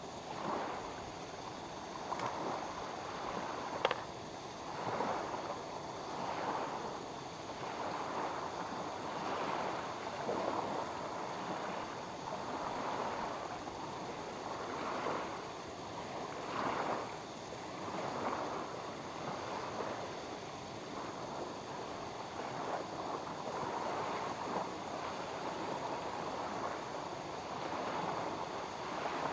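Small waves lapping at the lake shore, swelling and fading every second or two, with a single sharp click about four seconds in.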